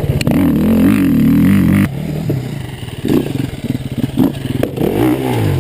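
Dirt bike engine revving hard, loudest for the first two seconds before dropping off abruptly, then rising and falling again in several shorter revs, with scattered knocks and clatter.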